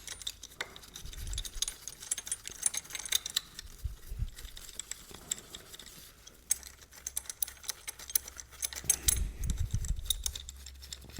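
Small metal parts clicking and clinking as a side stand extension plate and its screws are handled and offered up to a motorcycle's side stand, with a few dull low knocks about nine seconds in.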